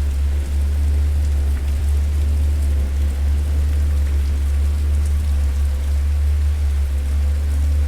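Fire in a fireplace crackling, with scattered faint pops over a steady low rumble.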